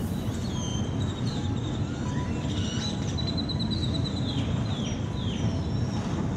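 Several birds chirping and whistling over a steady low rumble of outdoor background noise, with a short trill near the middle and a few falling whistled calls later on.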